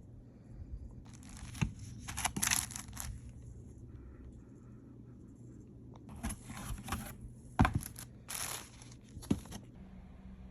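Packaging being torn open and crinkled by hand, in two spells of rustling and tearing with a few sharp clicks in between.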